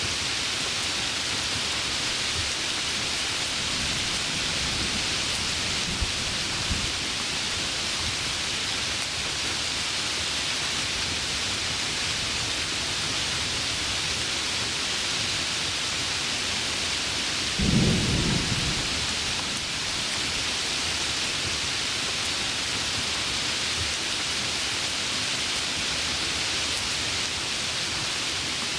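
Heavy rain falling steadily, with a single short low rumble of thunder about two-thirds of the way through.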